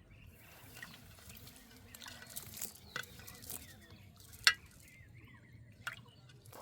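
Water splashing and trickling, with a few sharp slaps about three, four and a half, and six seconds in.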